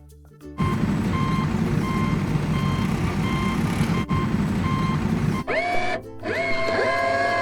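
Heavy truck engine running with its reversing alarm beeping repeatedly. Near the end the beeping gives way to a held tone that slides up in pitch and holds, breaks off briefly and slides up again.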